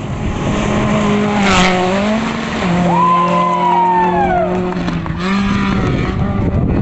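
Rally car engine running hard on a stage, its pitch stepping up and down, with a higher tone that rises and falls in the middle.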